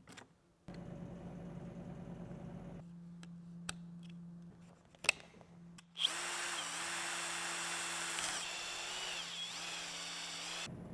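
A handheld power tool's electric motor runs for about five seconds in the second half, its pitch dipping briefly a few times as it takes load, then stops abruptly. A steady low hum and a couple of sharp clicks come before it.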